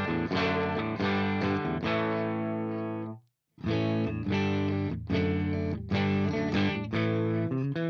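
Electric guitar chords played through a Fender Blues Junior IV tube combo amp, captured through a reactive load and a 4x12 Vintage 30 cabinet impulse response instead of a miked speaker. Several strummed chords ring out, and one is choked off about three seconds in. After a brief gap, more strummed chords follow.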